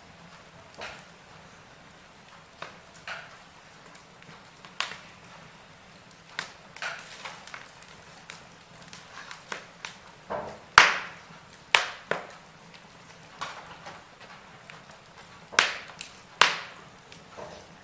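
Wood fire in a fireplace crackling: irregular sharp pops and snaps over a faint hiss, the loudest about eleven seconds in.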